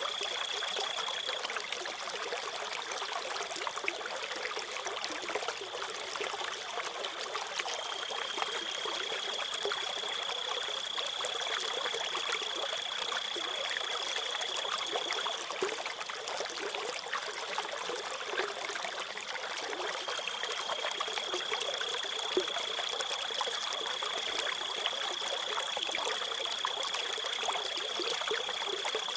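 Steadily trickling stream water with a cricket's continuous high-pitched trill over it; the trill fades out twice and comes back.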